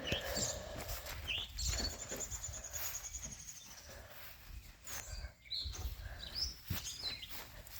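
Birds chirping: short high chirps and glides, with one trilled call lasting about a second and a half, over a low outdoor rumble.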